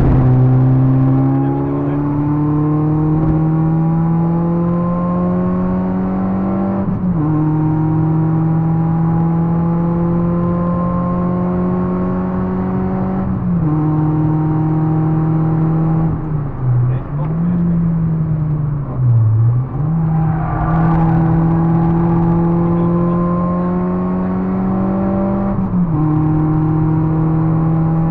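Citroën Saxo VTR's 1.6 eight-valve four-cylinder engine pulling hard at high revs, heard from inside the car. The pitch climbs slowly, steps down three times as in gear changes, and dips twice in quick succession near the middle as the throttle is briefly lifted and reapplied.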